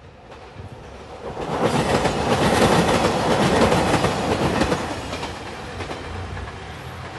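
Express train passing close by, wheels clattering over the rail joints. It swells as the train comes alongside about a second and a half in, then fades as it moves away.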